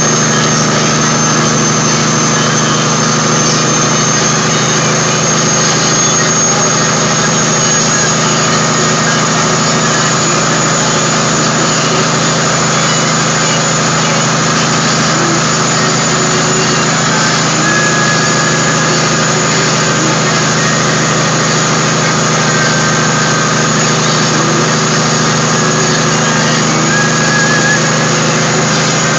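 Kenworth W900A log truck's Caterpillar 3406E diesel engine running at a steady, unchanging speed. A thin, steady high-pitched whine sits over the engine sound.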